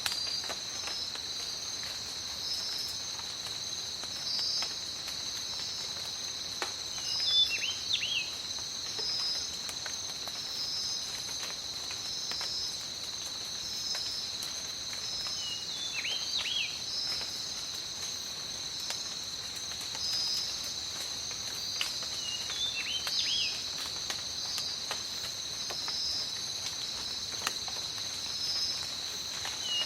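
Tropical rainforest ambience: rain pattering under a steady high insect chorus, with one chirp repeating about once a second. A bird calls in short bursts four times, loudest about seven seconds in.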